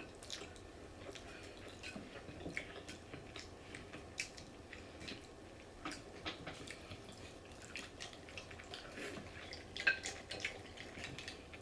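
Close-miked eating sounds of fried chicken being chewed: faint, irregular crisp clicks and wet mouth smacks.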